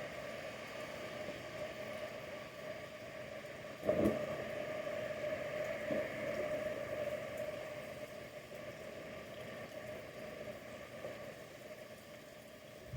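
A steady mechanical hum holding one pitch, with a single knock about four seconds in.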